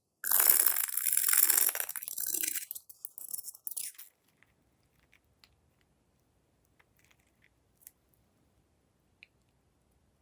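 Crunching and crackling of crunchy slime materials being handled, breaking into shorter bursts and stopping about four seconds in. Near silence follows, with a few faint clicks.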